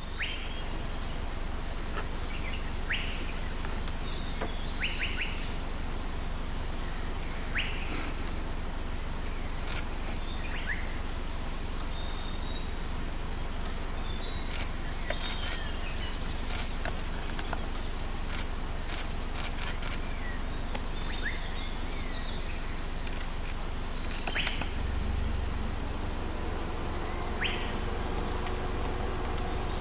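Forest ambience: short bird chirps every few seconds over a steady background hiss. From about three-quarters of the way in, a faint droning tone comes in and holds.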